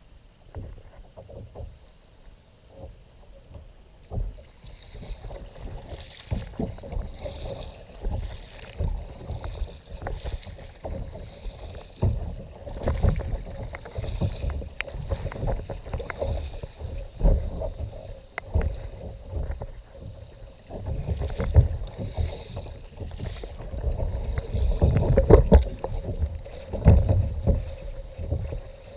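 A kayak moving on the water: water splashing and lapping against the hull, with irregular low rumbling and occasional knocks. It gets louder from about four seconds in.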